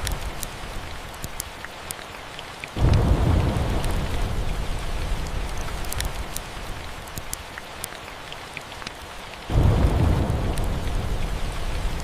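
Steady rain with two rolls of thunder, one about three seconds in and one near ten seconds, each starting suddenly and fading slowly. Scattered sharp crackles of a fireplace sit over the rain.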